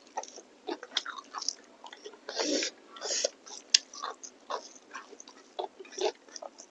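Close-miked eating sounds: chewing and biting, with irregular wet mouth clicks and smacks and a few longer, louder smacking bursts around the middle.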